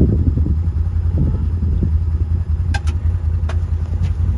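Vehicle engine running with a steady low rumble, and a few sharp clicks about three seconds in.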